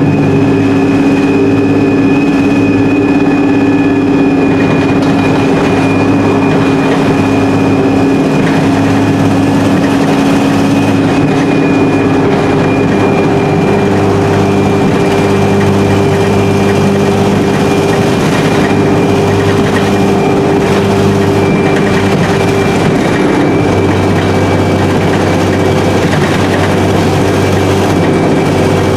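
Alexander Dennis Enviro300 bus on an E30D chassis under way: a steady diesel engine drone with a thin high whine from its Voith four-speed automatic gearbox. The engine note shifts twice as the bus changes speed, and the exhaust is blown.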